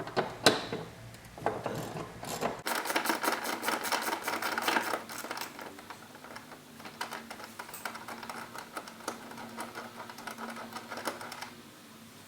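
A few sharp knocks, then a long run of rapid metallic clicking and rattling from hand tools and parts being worked on while the car's 12-volt wiring is connected.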